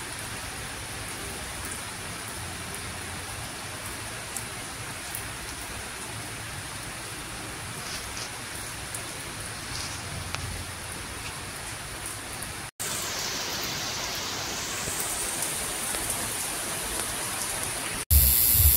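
Steady rain falling, an even hiss. About 13 seconds in it drops out for an instant and comes back a little louder, and just before the end it drops out again and comes back much louder.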